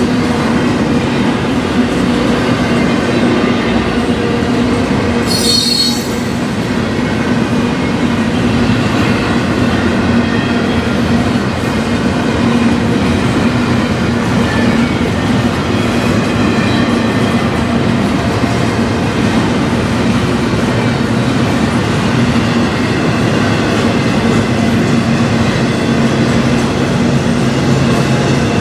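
Freight train rolling past steadily, wheels running on the rails with a continuous squealing tone. About five seconds in there is a brief, sharper high-pitched squeal.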